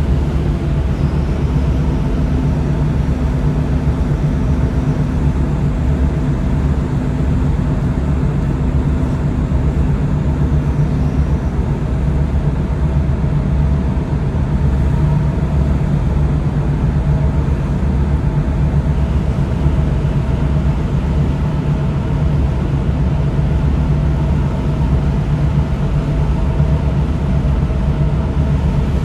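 Tugboat engine running with a steady low hum, its pitch and level unchanging throughout.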